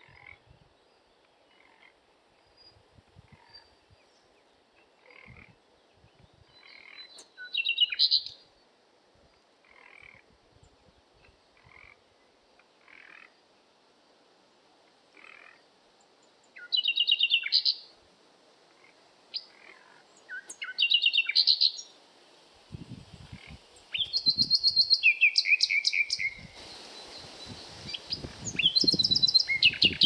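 Songbird singing: several loud bursts of rapid high chirps and trills, the longest about two seconds, over fainter short calls repeating about once a second in the first half. The background hiss rises in the last few seconds.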